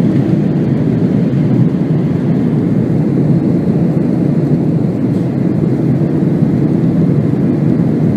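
Airbus A300-600 jet engines heard as a steady, loud, low rumble with no change in pitch.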